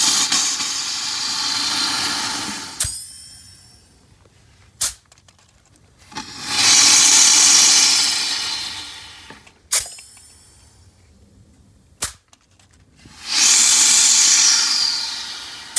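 Pressurized gas blown through air-conditioner refrigerant piping to flush it, in three long hissing bursts of a few seconds each, with sharp pops between them.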